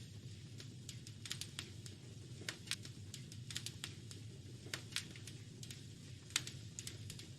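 Wood fire crackling in a fireplace: irregular sharp pops and snaps, sometimes several a second, over a steady low rumble.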